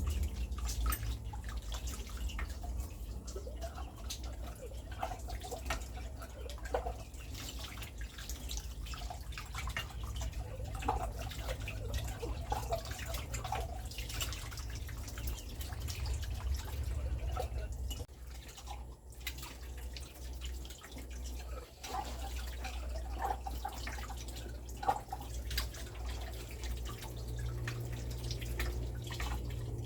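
Water dripping and splashing, with many small clicks and knocks, over a steady low hum.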